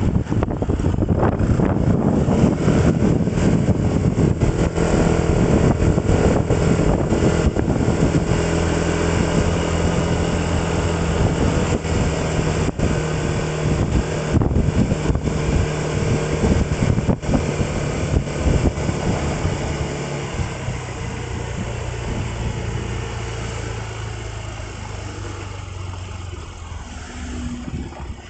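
Motor vehicle engine and road noise heard on board while travelling. The engine note holds steady, then drops and grows quieter over the last several seconds as the vehicle slows.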